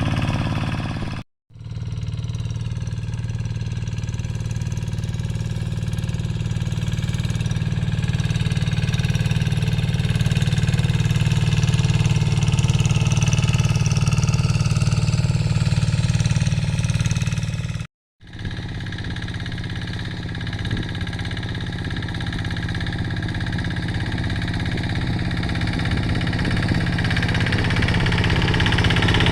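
Quick G3000 two-wheel hand tractor's diesel engine running steadily while plowing dry soil. The sound cuts out completely twice for a moment, once about a second in and again about two-thirds of the way through.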